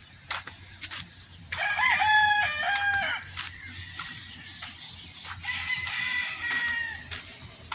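Gamecock rooster crowing loudly once, starting about a second and a half in and lasting about a second and a half, with a fainter crow from another rooster later on.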